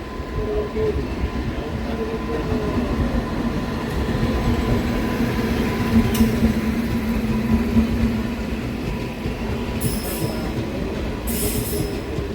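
Train running on rails close by: a steady heavy rumble with wavering wheel-squeal tones, swelling about halfway through, and two short hisses near the end.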